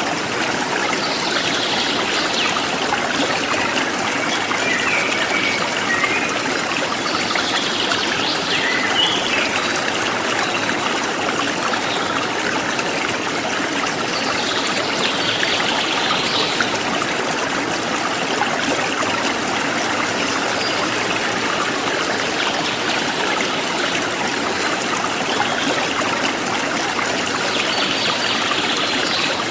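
Forest stream flowing steadily, with birds chirping in short bursts every several seconds.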